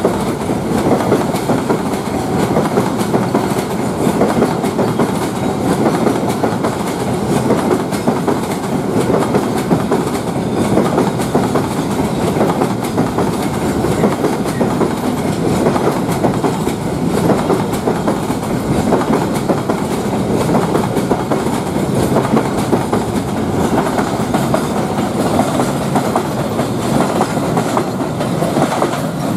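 A train rolling past, its wheels running over the rails in a steady, loud rumble.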